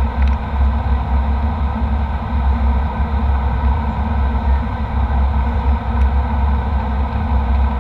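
Jet airliner cabin noise in flight: a steady deep engine and airflow drone with a constant hiss over it.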